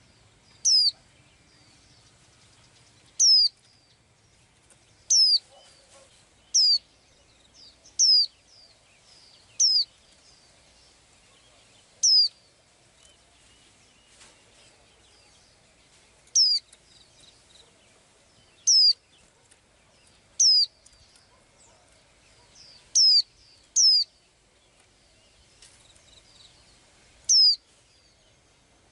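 A small pet bird calling over and over: about a dozen short, high-pitched chirps, each sweeping sharply down in pitch, spaced irregularly one to four seconds apart.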